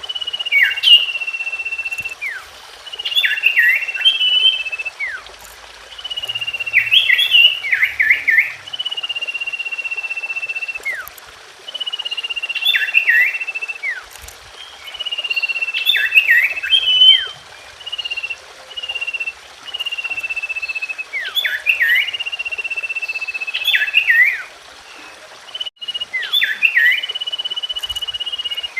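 Common iora (cipoh) song: a long whistled note held a second or two and falling slightly, then a few quick down-slurred notes and chatter, the phrase repeating about every three seconds over a steady hiss.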